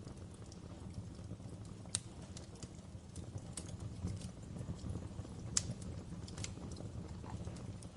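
Wood fire burning in a fireplace: a steady low rumble of the flames with irregular sharp crackles and pops, the loudest pops about two seconds in and just past halfway.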